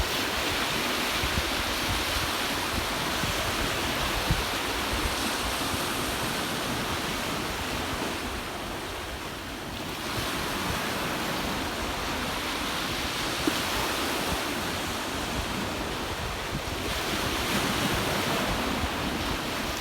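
Ocean surf washing ashore in a continuous wash, easing off about eight seconds in and swelling again about two seconds later, with wind buffeting the microphone.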